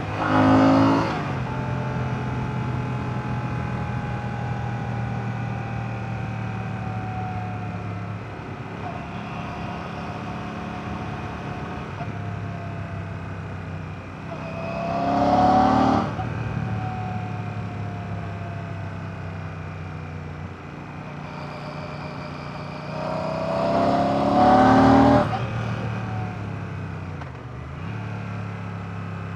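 Royal Enfield Classic 650's 648cc air/oil-cooled parallel-twin engine running under way. Three times the engine note rises and swells loudly for a second or two, near the start, about halfway and near the end, then its pitch falls away slowly.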